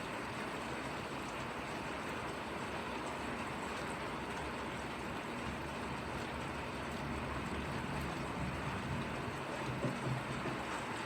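Steady hiss of falling rain, with a low rumble swelling in the second half and peaking near the end.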